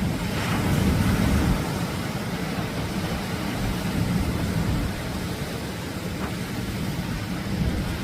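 Atlantic surf breaking and washing onto a beach: a steady rush of noise with a low rumble, swelling about a second in.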